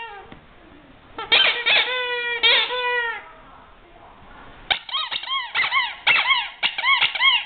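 Rubber squeaky toy squeezed over and over: a few long squeaks that dip in pitch about a second in, then, from about five seconds in, a quicker run of around eight shorter squeaks that each rise and fall.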